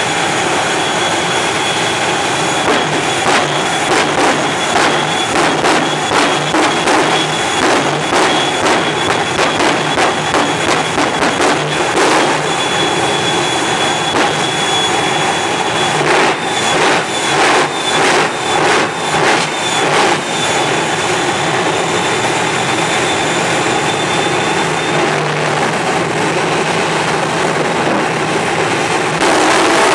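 Jet truck's turbine engines running with a loud, steady roar and a high, steady whine. A little past halfway comes a run of sharp pops and bangs.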